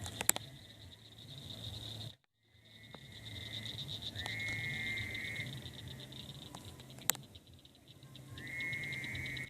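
Frogs calling at night: about a second-long trills repeat every few seconds over a steady, rapidly pulsing higher chorus. The sound drops out abruptly for a moment about two seconds in, and there are a couple of sharp clicks.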